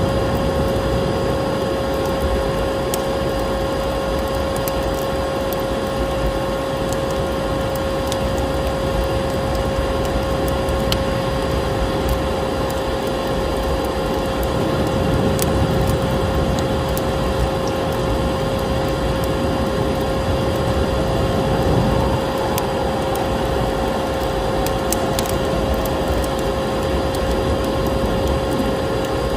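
Electric vacuum cleaner running steadily with a constant whine, mixed with the scattered crackles and pops of a wood fire burning in a fireplace.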